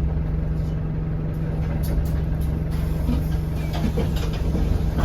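Euro 6 Alexander Dennis Enviro200 single-decker bus heard from inside the cabin: the diesel engine runs with a steady low hum, with scattered small rattles and clicks from the bus interior.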